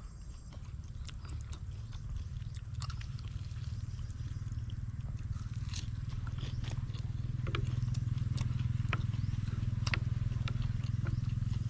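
Eating sounds: short wet clicks and smacks of chewing, scattered through, over a steady low hum that grows louder about halfway through.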